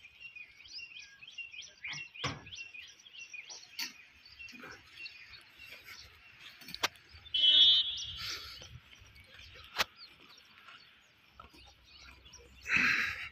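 Birds chirping in a quick series of short calls over the first few seconds, then a steady high background chatter of birds. A louder pitched call comes about seven and a half seconds in, and a loud harsh burst comes near the end, with a few sharp clicks in between.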